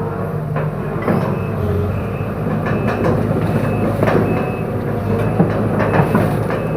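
Excavator's diesel engine running steadily under load, with scattered sharp cracks and knocks that come more often in the second half.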